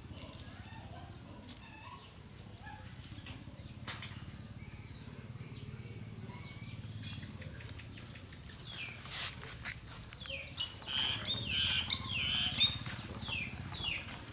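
A rapid series of short, high-pitched chirping calls, each falling in pitch, starting about eight seconds in and growing louder.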